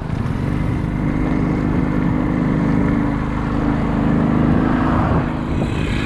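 Motor vehicle engine running steadily on the move, with road and wind noise.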